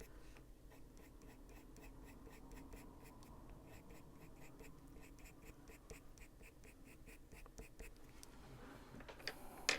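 Caran d'Ache Luminance coloured pencil scratching on paper in quick, even strokes, several a second, shading in a drawing; the strokes stop about eight seconds in, and a single sharp tap comes near the end.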